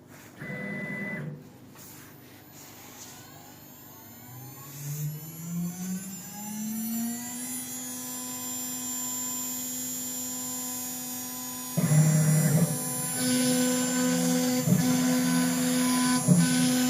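CNC router spindle spinning up, its whine rising in pitch over about three seconds and then holding steady. About twelve seconds in, a louder, rougher noise joins, with a few short knocks.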